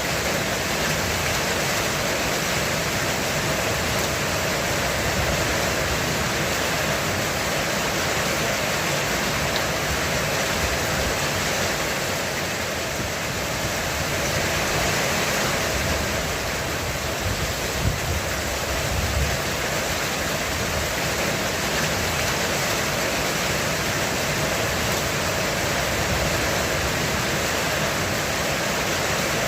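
Heavy rain drumming on a roof, a steady, even hiss of countless drops.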